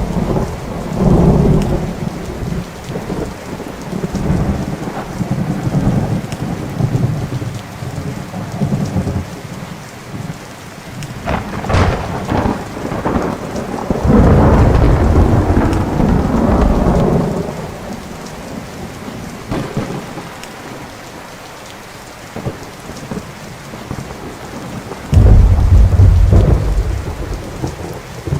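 Thunderstorm: thunder rolling and rumbling over steady rain. A sharp crack comes about twelve seconds in, followed by a long heavy rumble, and another loud rumble starts suddenly near the end.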